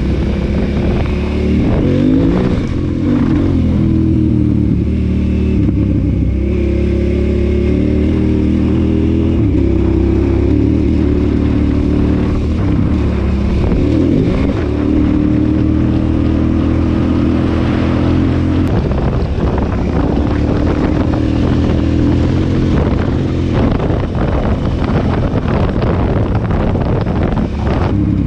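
KTM 990 Adventure S V-twin engine running under way, its pitch dipping and rising a few times with the throttle and gears, with frequent short knocks and rattles in the second half.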